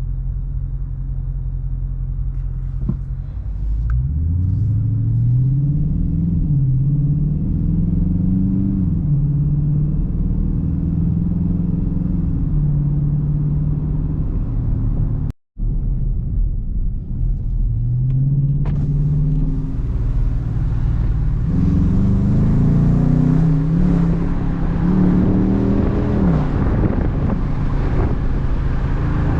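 Dodge Charger R/T's 5.7-litre Hemi V8 accelerating through the gears, its note rising and dropping back with each upshift, then running steadily. After a brief cut in the sound about halfway, it pulls through the gears again, with road and wind noise building.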